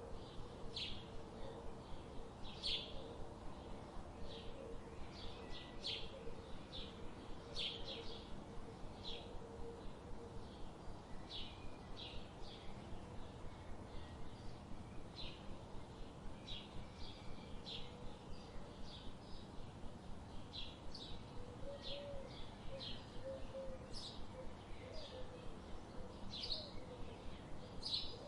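Songbirds giving short, high chirps about once a second, over a steady rushing hiss of a river. A few softer, lower calls come in about two-thirds of the way through.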